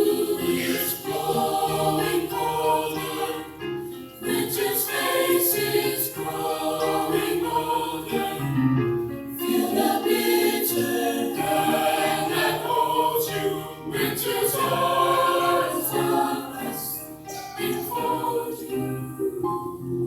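School chorus singing in parts, phrase after phrase with short breaths between them.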